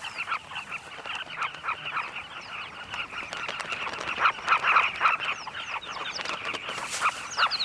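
A colony of carmine bee-eaters calling: a dense, unbroken chorus of many short overlapping calls, some sweeping down in pitch, a little louder about halfway through.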